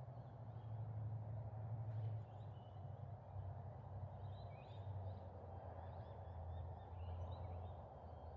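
Faint birds chirping in short calls, most of them in the second half, over a steady low rumble and hiss of outdoor ambience.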